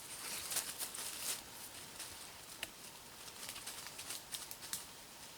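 Irregular light rustling with scattered crackles and small ticks.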